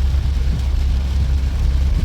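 Steady low rumble of a 2012 Honda Odyssey heard from inside the vehicle, with a faint even hiss above it.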